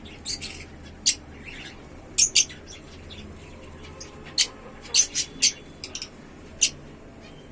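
African lovebirds chirping: about a dozen short, sharp, high chirps at irregular intervals, some in quick pairs.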